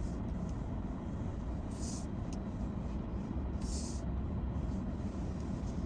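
Steady low rumble of a car, with two brief hisses about two and four seconds in.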